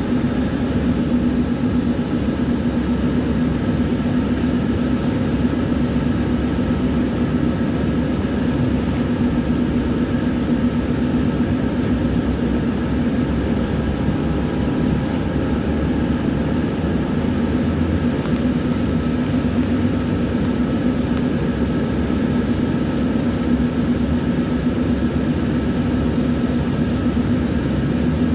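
Tram running along the rails: a steady drone of motors and wheels with a low hum and fainter steady higher tones.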